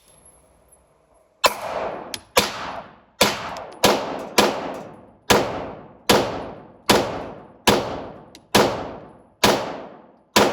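A gun fired about a dozen times, one shot at a time at a steady pace of roughly one a second, starting about a second and a half in. Each shot has a short echoing tail. The magazine is being emptied.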